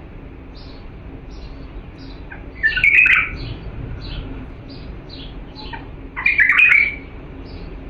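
Bulbul singing: two loud warbled song phrases, about 3 and 6.5 seconds in, over a steady run of short high chirps about twice a second.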